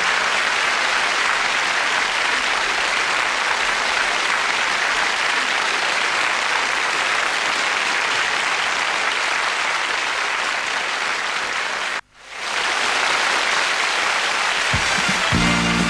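Studio audience applauding. The applause cuts out abruptly about twelve seconds in and comes back up, and the band's music starts just before the end.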